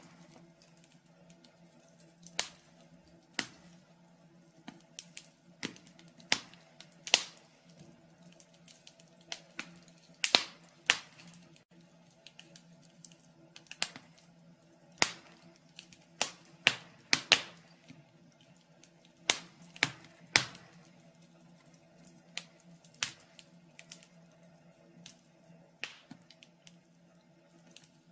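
Wood fire burning in a fireplace, crackling with irregular sharp pops and snaps, a few every couple of seconds.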